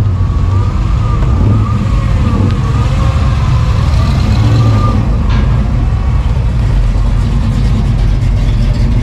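A car engine running with a steady, heavy low rumble, with faint voices over it.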